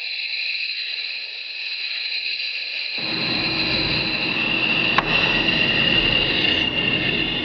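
Fighter jet cockpit noise during a G turn: a steady high whine over hiss. About three seconds in, a low rumble comes in abruptly, and there is a single sharp click about five seconds in.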